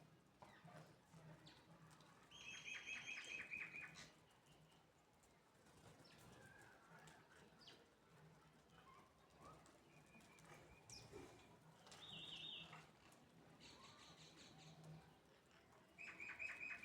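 Sparrows and mynas chirping faintly, with a few quick runs of repeated chirps among scattered single calls.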